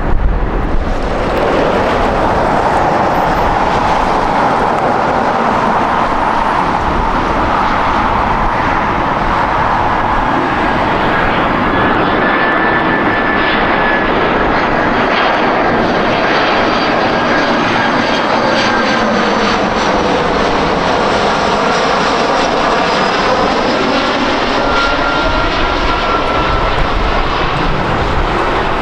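Jet airliner's engines close by: a loud, steady rush of jet noise, with a high whine coming in about a third of the way through and gliding slowly down in pitch.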